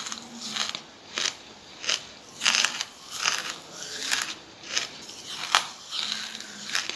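Charcoal being chewed: a steady run of crisp crunches, roughly one every half second to second, the loudest about five and a half seconds in.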